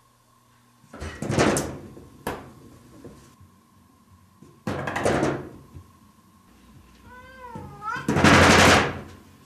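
A cat knocking its paw against a frosted-glass sliding door, rattling the glass in its wooden frame in three bursts of about a second each, the last the loudest. A short, wavering meow comes just before the last rattle.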